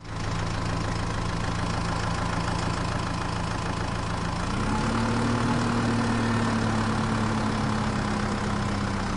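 Tractor engine running steadily with a low knocking beat; about four and a half seconds in it speeds up a little and holds the higher pitch.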